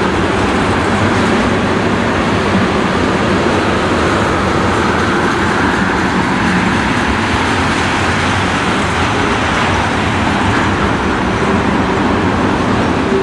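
Freight train of tank cars rolling steadily past: a continuous rumble and rush of steel wheels on rail.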